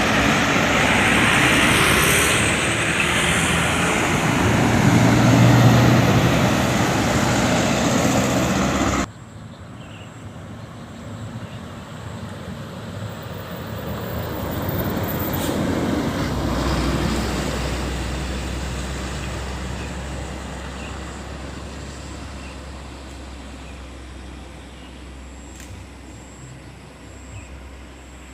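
Heavy road vehicles passing close by, with engine and tyre noise. About nine seconds in the sound cuts abruptly to a quieter roadside, where another vehicle passes and a low engine hum continues.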